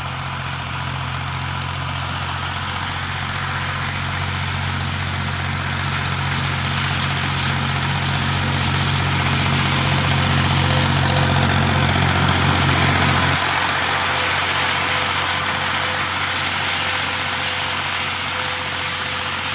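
Agrifull 55 tractor's diesel engine running steadily while driving a Kuhn PZ190 drum mower cutting alfalfa. The sound builds gradually, and about 13 seconds in the low engine note drops abruptly and thins out.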